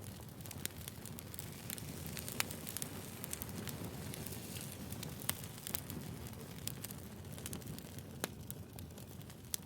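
Firewood burning, crackling with frequent irregular sharp pops over a steady low rumbling hiss.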